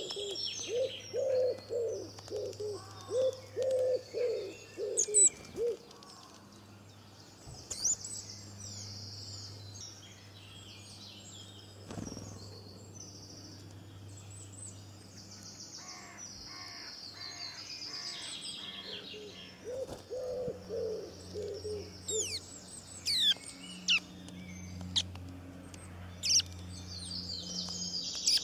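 Birds chirping and trilling, with runs of a lower repeated call, a few notes a second, near the start and again about two-thirds of the way through, over a steady low hum.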